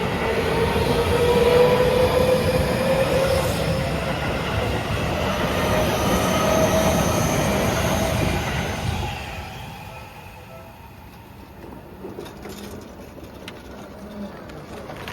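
Seibu 30000 series electric train passing over a level crossing: wheels running on the rails, with a steady whine that rises slightly in pitch. It fades away after about nine seconds.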